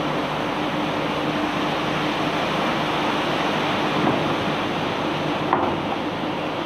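Engine of the barge-unloading machinery running steadily with a low hum, with a faint knock about four seconds in and another about a second and a half later.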